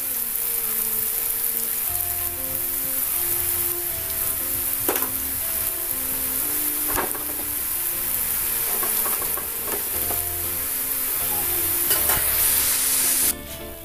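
Rice-flour dough pieces deep-frying in a pan of hot oil: a steady, loud sizzle with a couple of sharp pops, cutting off suddenly near the end. A simple background melody plays underneath.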